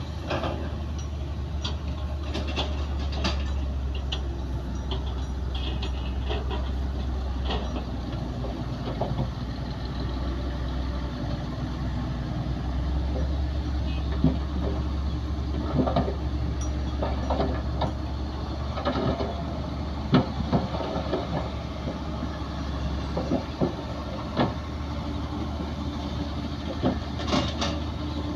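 Heavy diesel earthmoving machinery running steadily with a deep engine hum, with repeated metallic clanks and knocks scattered through it.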